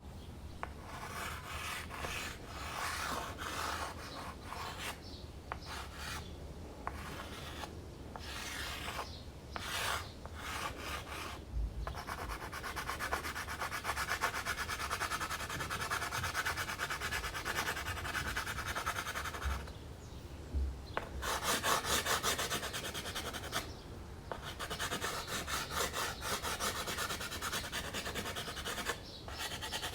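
Dry pastel stick scratching and rubbing across primed canvas in strokes. The strokes come singly with short gaps at first, then after about twelve seconds turn into faster, near-continuous hatching with a couple of brief pauses.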